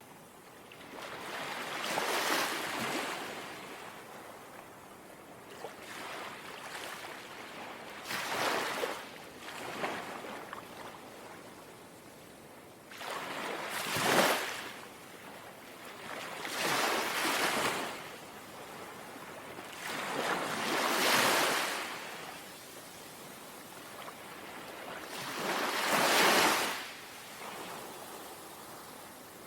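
Small, gentle sea waves lapping in: a soft surge of water every few seconds, about seven in all, each swelling and fading, with a low wash of water between them.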